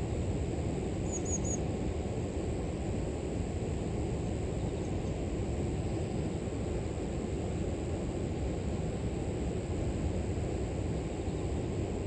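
River water flowing, a steady low rush with no change in level. A thin, continuous high trill of grass insects runs over it, and a bird gives three quick high chirps about a second in.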